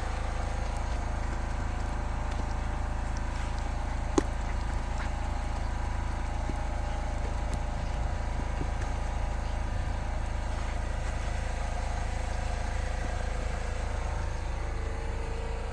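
An engine running steadily at idle, with one sharp click about four seconds in.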